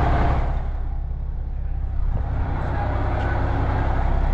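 Truck engine running with a steady low rumble while a trailer is backed into position. Its higher sound dips briefly about a second in and comes back at about two seconds.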